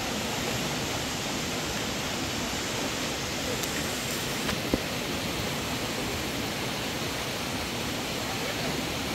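Steady rushing noise of flowing water, with a single sharp click a little under five seconds in.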